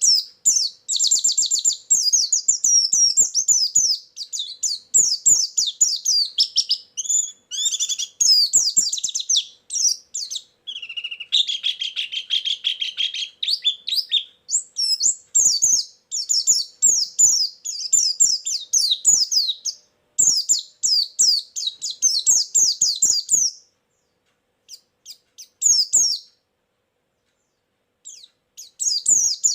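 Pleci (white-eye) singing: long runs of rapid, high twittering trills, with a lower trill midway. About three-quarters of the way through it breaks into a few scattered notes and a short pause, then resumes near the end.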